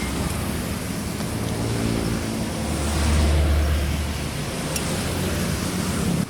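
An engine running with a low, steady hum over a rushing noise, swelling in level about three seconds in.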